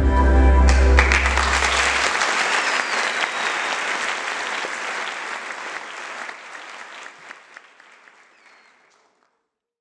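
The last notes of the dance music end about a second in, and an audience applauds; the applause fades away gradually over several seconds.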